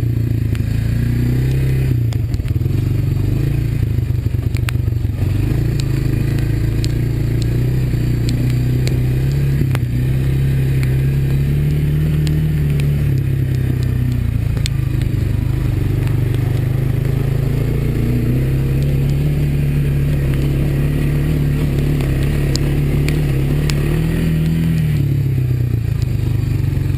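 A Honda ATV engine running under way on a trail, its note rising and falling with the throttle. Scattered small clicks and clatter come through over it.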